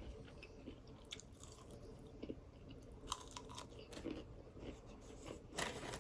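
A person chewing crunchy deep-fried breading, with soft crackling crunches and mouth sounds, and a louder crunching bite near the end.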